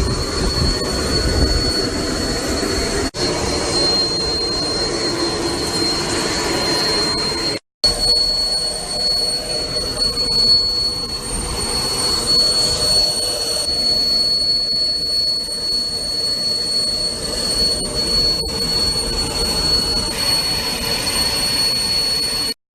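Jet engine noise heard inside a private jet's cabin: a steady rushing hiss with a thin, high steady whine. It cuts out briefly twice, about three and eight seconds in.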